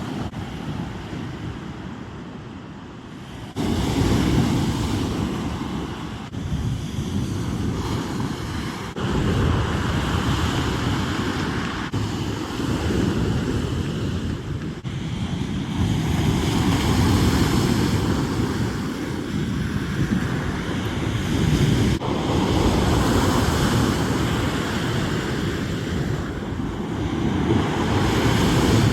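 Sea surf breaking and washing on the shore, swelling and easing every few seconds, with wind buffeting the microphone.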